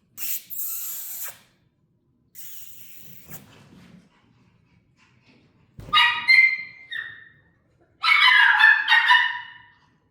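Toy fox terrier puppies playing: scuffling in the first few seconds, then high-pitched puppy yips and squeals about six seconds in and again in a longer burst near the end.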